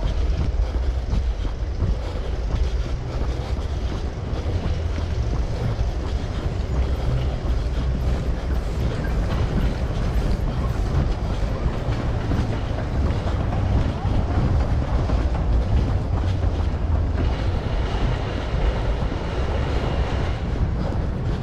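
Steady low rumble of wind buffeting the microphone of a camera carried while running.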